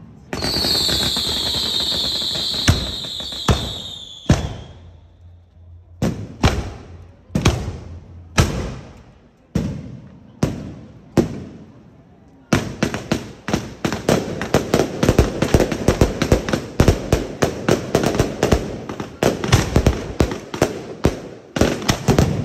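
Fireworks going off. A shrill whistling firework sounds for about four seconds, sinking slightly in pitch among loud bangs. Single bangs follow about once a second, and from about halfway through there is a rapid, dense string of firecracker bangs.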